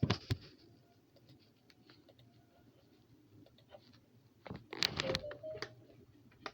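A few sharp clicks, then near quiet, then a cluster of light clicking and scratching about four and a half seconds in, like small objects being handled.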